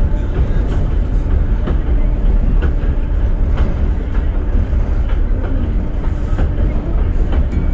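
Electric interurban railcar running along the track, heard from on board: a steady low rumble of wheels on rail with scattered clicks.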